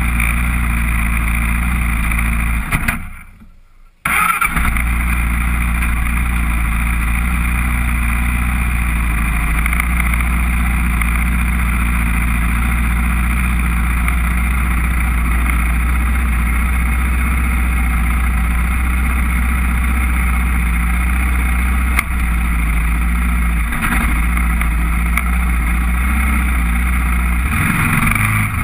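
Honda TRX400EX quad's single-cylinder four-stroke engine running steadily under way, with a heavy low rumble. The sound briefly fades out about three seconds in and comes back a second later.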